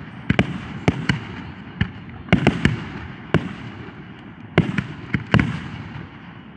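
Fireworks display going off: a dozen or so sharp bangs at irregular intervals, some in quick pairs, over a steady rumble of further bursts.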